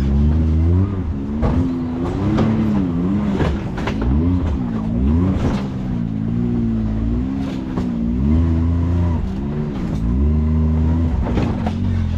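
Side-by-side UTV engine revving up and down over and over under load as it picks its way up a rocky off-road climb, with scattered sharp knocks.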